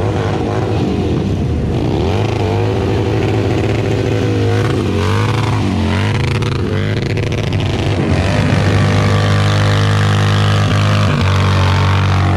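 Motorcycle engine running, revved up and down several times in the first half, then holding a steady, even drone.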